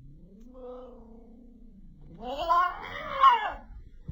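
A domestic cat yowling: a long, low drawn-out call that rises and falls, then a louder, higher wavering yowl about two seconds in.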